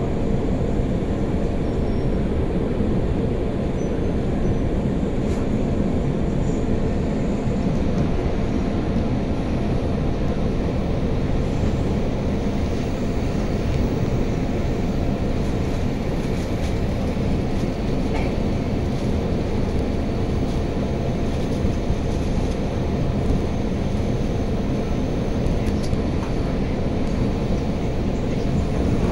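Steady running noise of a KRL commuter electric train heard from inside the carriage: a continuous low rumble of the train on the rails, with a faint steady tone above it.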